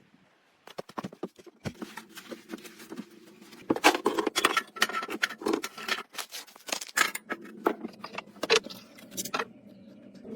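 An irregular clatter of many sharp clicks and knocks from small hard objects, sparse at first, busiest in the middle, then thinning out; a steady low hum comes in near the end.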